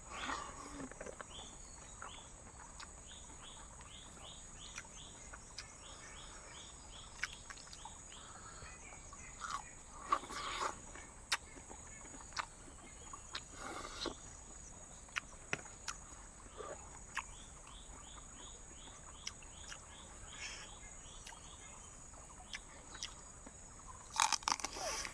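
Night insects in the jungle: a steady high-pitched drone under runs of short repeated chirps, a few a second, with scattered sharp clicks and knocks.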